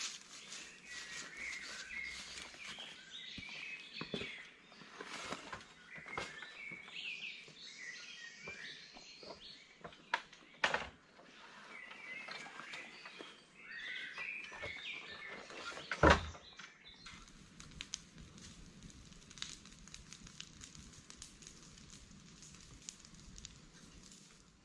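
Small birds chirping and singing in the woods, with scattered light clicks and knocks and one loud thump about 16 seconds in; the chirping fades after that, leaving a steady hiss.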